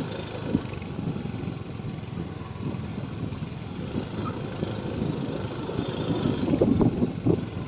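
A vehicle rolling over a rough rocky road: a steady low rumble with many short knocks and jolts, heavier a little before the end.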